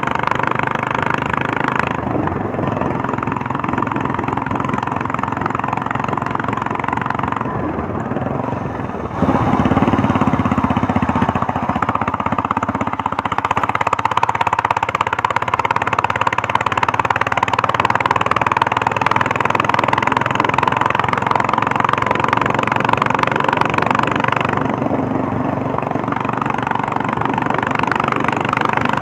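Royal Enfield Meteor 350's single-cylinder engine and exhaust running as the motorcycle is ridden. It gets louder about nine seconds in as the throttle is opened.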